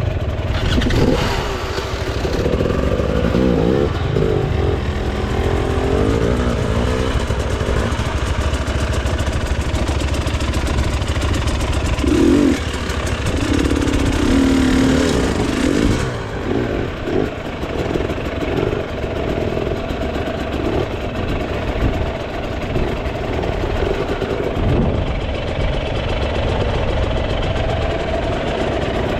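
Enduro motorcycle engine running under load, its pitch rising and falling again and again as the throttle is opened and closed.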